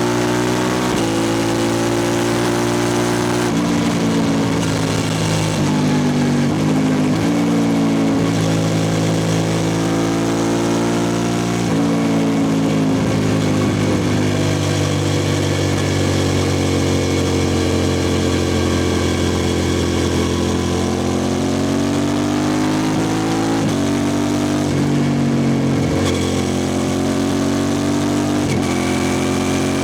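A 2003 Suzuki SV650S's V-twin running through a Lextek exhaust with no dB killer. The engine note climbs and then drops sharply several times, with a long slow fall and rise in pitch in the middle.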